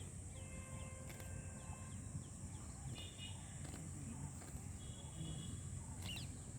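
Outdoor rural ambience: birds chirp now and then, clearest about three and six seconds in, over a steady high hiss and a low rumble.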